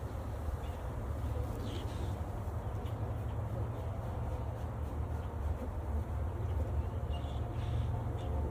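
Steady hum of a mass of honeybees at an open hive, over a low rumble of wind on the microphone, with a few faint bird chirps.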